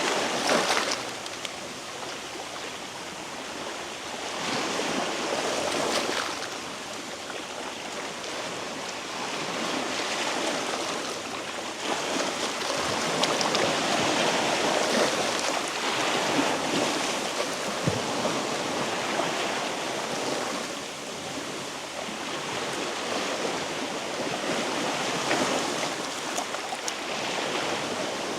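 Sea waves washing against a rocky shore, a steady rush that swells and eases every few seconds.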